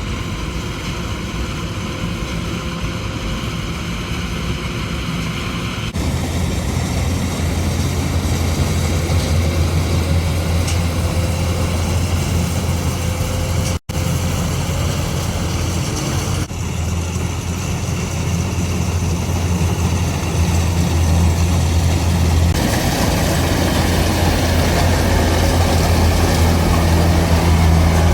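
Combine harvester engine running steadily with a low drone, its level and tone shifting several times, with a momentary break near the middle.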